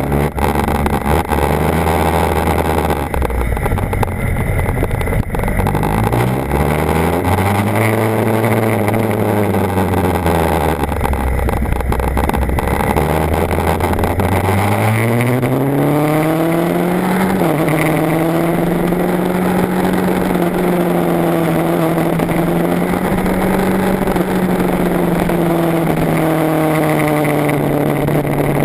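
BMW HP4's inline-four engine running under way, its note rising and falling about a quarter of the way in, climbing again around halfway, dropping sharply once, then holding a nearly steady pitch. A steady rushing noise runs underneath.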